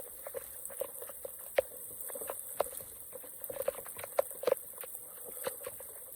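Water dripping and plopping in irregular short drops and light splashes, over a faint steady hiss.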